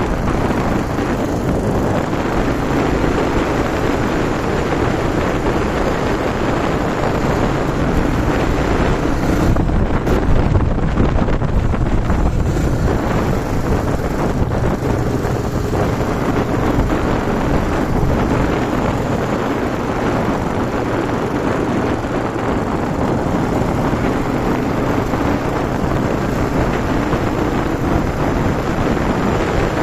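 Yamaha TW200's single-cylinder four-stroke engine running steadily while riding, with wind buffeting the microphone.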